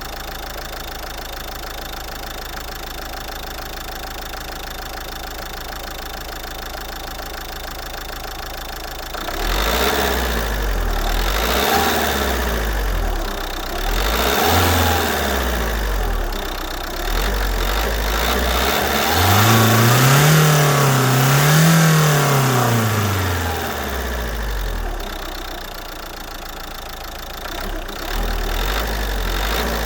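Renault 1.5 dCi turbodiesel four-cylinder idling steadily, then revved several times from about nine seconds in. The two highest revs come close together just past the middle, and the engine drops back toward idle near the end.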